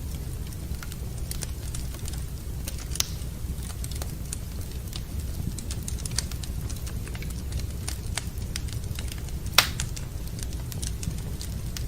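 Wood fire burning in a fireplace: scattered crackles over a steady low rumble, with a louder pop about ten seconds in.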